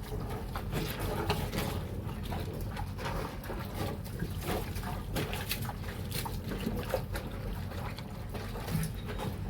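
Water sloshing and splashing with irregular small splashes and drips as wet bedsheets are worked in a basin of soapy water.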